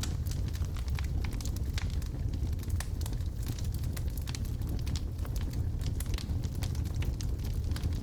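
Logs burning in a wood fireplace, with frequent sharp crackles and pops at irregular intervals over a steady low rumble of the flames.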